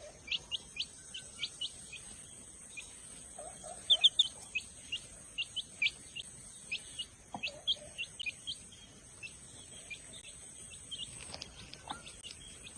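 A small bird chirping over and over: short, sharp, high chirps coming a few a second at an uneven pace, some in quick clusters.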